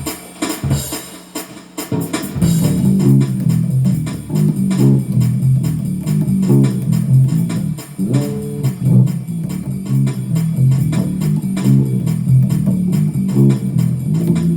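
Bass guitar playing a fast gospel shout-music line, low notes in quick succession, starting about two seconds in.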